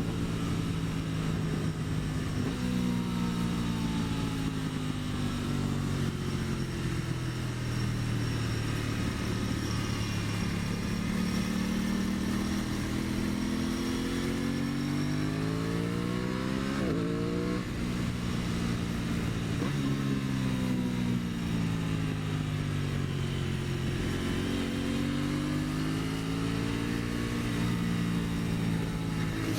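Engine of a 2023 Aprilia Tuono 660, a parallel twin, running under way. Its pitch falls and rises again several times as the bike slows and speeds up, with a quick sharp rev about 17 seconds in.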